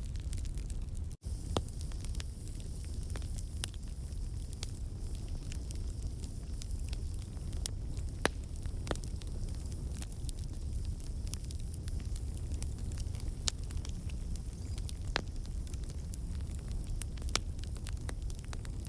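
Wood campfire burning: a steady low rumble of flame with irregular sharp crackles and pops from the logs, the crackling caused by water and sap in the wood turning to steam and escaping. The sound cuts out for an instant about a second in.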